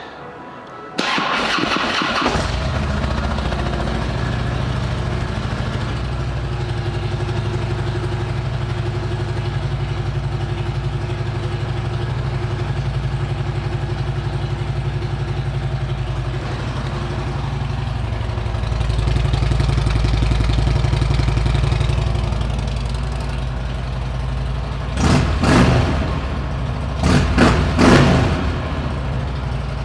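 2009 Harley-Davidson Ultra Classic Electra Glide's Twin Cam V-twin, fitted with Rinehart exhaust pipes, cranking on the starter and catching about two seconds in. It then idles steadily, and is given two short revs near the end.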